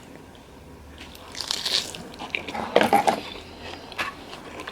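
A person biting into and chewing fries close to the microphone, with a few short crunchy bites. The fries are hot.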